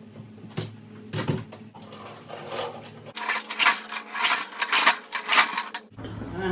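Mechanical clatter from an old gas lawnmower as it is tried after a tune-up: a couple of knocks, then about three seconds of rapid rattling that stops suddenly. A seized part and a frozen cable keep it from running properly.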